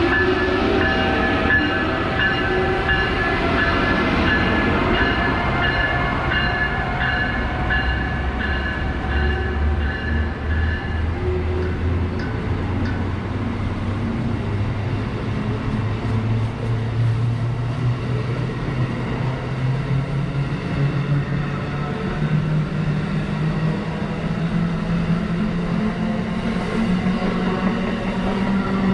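Electric passenger train on the Northeast Corridor accelerating, its motor whine rising steadily in pitch over about twenty seconds. Several high steady tones sound at first and fade out about a third of the way through.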